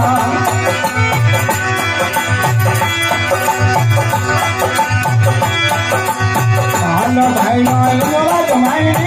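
Instrumental passage of Rajasthani folk bhajan music: a held, wavering melody over a steady drum beat and fast, dense high percussion strokes.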